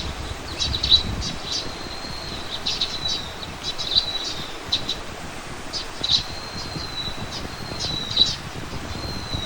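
Small birds chirping: quick repeated chirps broken by thin, drawn-out whistles, several times over.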